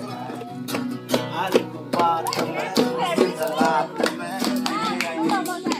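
A Hindi Christian worship song about Jesus: a voice singing over strummed guitar with a steady beat.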